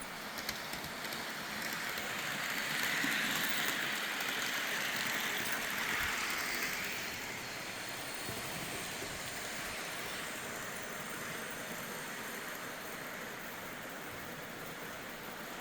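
Model trains running on a layout: wheels rolling on the track and a small motor whirring. The sound grows louder from about two seconds in, as a train passes close, and settles back down after about seven seconds.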